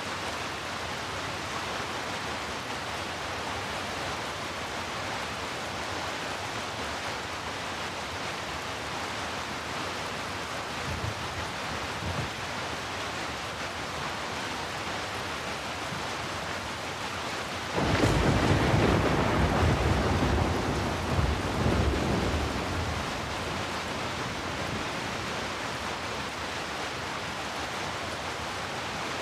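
Heavy steady rain, with a faint low rumble of thunder about eleven seconds in and a loud clap of thunder about eighteen seconds in that rumbles on for around five seconds before fading back into the rain.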